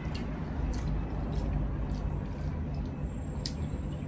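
Close-up eating sounds of chicken curry eaten by hand: scattered short wet clicks and smacks of chewing and lips over a steady low hum.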